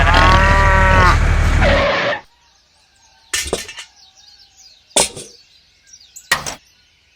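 Loud, dense noise with a steady low hum and a wavering, pitched call, which cuts off suddenly about two seconds in. Then come four sharp cracks, about one every second and a half, over faint bird chirps.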